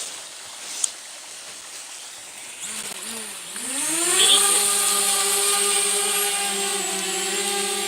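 DJI Spark drone's electric motors and propellers spinning up about three seconds in, the pitch sweeping upward and then settling into a steady whine as it lifts off and hovers. A short click comes about a second in.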